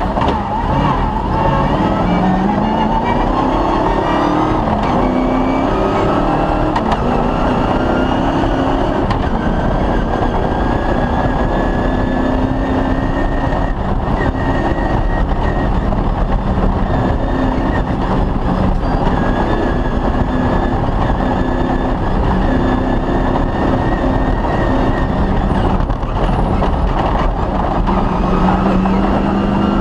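Cross-country rally vehicle's engine at speed on a special stage, heard from onboard. It rises in revs over the first few seconds, then holds fairly steady with small shifts in pitch, over constant loud rumble and noise.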